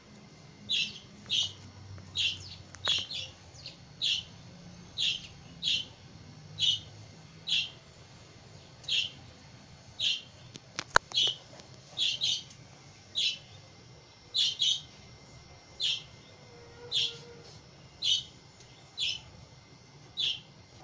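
A bird calling over and over with short, sharp, high notes, about one a second, sometimes in quick pairs. A single sharp click sounds about halfway through.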